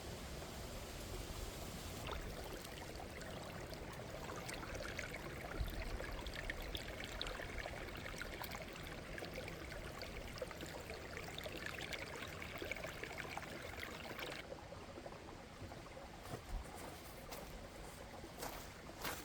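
Mountain stream running, a steady rush of water. A few sharp knocks or rustles come in over it near the end.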